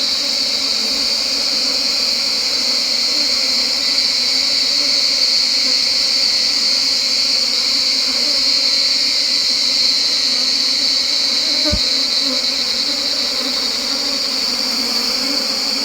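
Wild honeybees buzzing around their opened tree-hollow nest, a steady low hum, under a louder, unbroken high-pitched insect drone. A single knock sounds about twelve seconds in.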